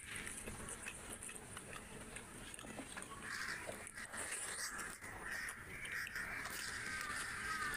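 Close-miked wet chewing and lip-smacking of a mouthful of rice and curry eaten by hand, with small clicks and squelches of fingers mixing food on a plate.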